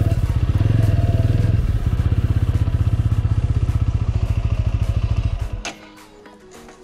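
TVS Apache RTR 200 4V's single-cylinder engine running at low speed with an even, rapid pulse as the bike rolls along a dirt track. About five and a half seconds in, the engine sound stops abruptly, followed by a click.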